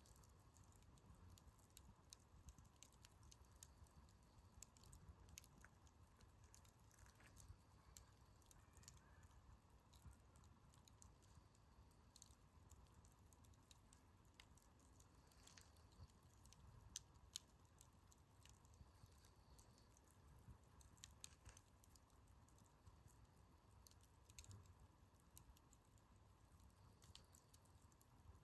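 Wood campfire crackling faintly, with small irregular pops and ticks scattered throughout.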